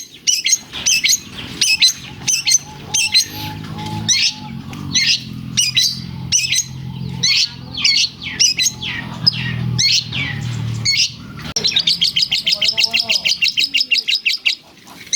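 Long-tailed shrike singing loudly in a string of sharp, squeaky chirps that take in lovebird-like calls. Near the end it breaks into a rapid trill of about ten notes a second.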